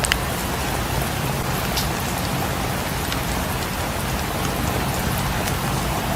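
Steady heavy rain falling, an even dense patter with scattered sharp ticks.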